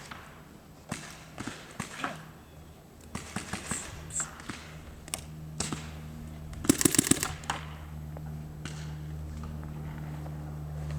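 Paintball markers firing: scattered sharp pops, with a quick burst of several shots about two-thirds of the way in.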